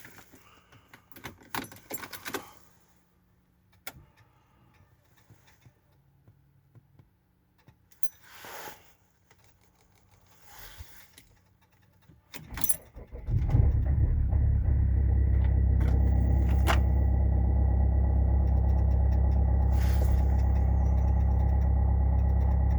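Keys and small clicks for several seconds, then an Opel Insignia's 2.0 CDTI four-cylinder diesel cranks briefly on the starter and catches on a −5 °C cold start, settling into a steady idle.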